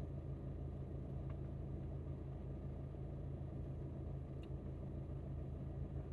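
Alfa Romeo MiTo's engine running steadily with low road rumble, heard from inside the cabin, and a couple of faint ticks.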